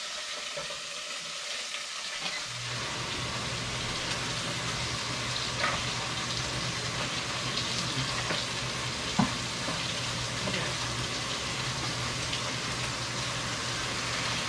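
Salmon fillets and onions frying and sizzling in hot oil in pans on a stovetop, with a few sharp clicks of utensils against the pans. A steady low hum comes in about two and a half seconds in and stays.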